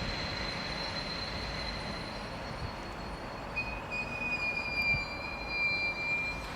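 Train running on the rails with a steady high-pitched wheel squeal; a second, lower squeal tone joins about three and a half seconds in and stops near the end.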